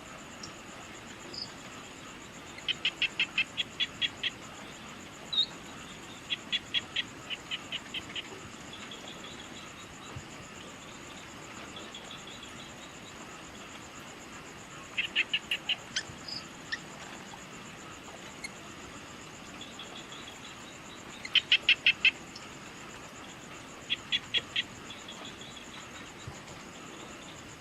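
Evening nature ambience: a steady high-pitched insect drone, with a rapid series of six to ten sharp chirps from a calling animal every few seconds.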